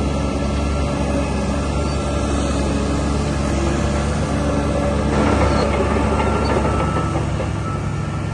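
Diesel engine of a DH17 C2 LGP bulldozer running with a steady low hum, growing louder and harsher about five seconds in.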